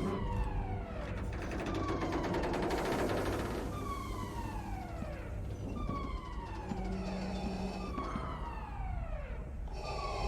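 Siren-like wailing: a falling pitched tone repeated about every one and a half seconds, over a low steady hum.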